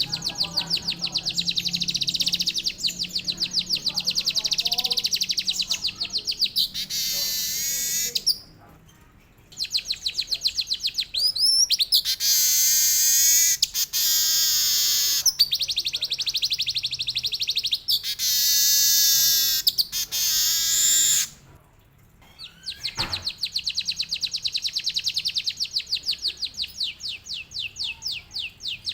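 Weaver bird (manyar) singing long, very fast rolling trills mixed with canary-like phrases. The song breaks off twice briefly, about eight and twenty-two seconds in.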